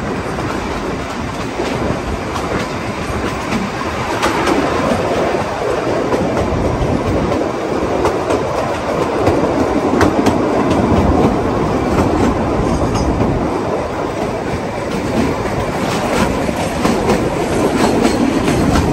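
Kalka–Shimla narrow-gauge toy train running: a steady rumble of the coach with its wheels clattering over the rail joints and occasional sharper clicks.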